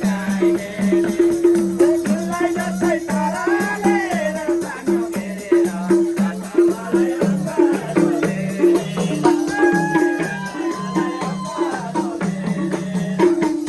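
Instrumental interlude of live Nepali dohori folk music: low pitched drum strokes in a quick, even rhythm under a wavering melody line.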